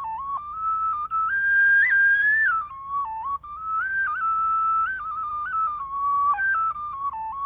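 Solo flute playing a slow melody of held notes that step up and down.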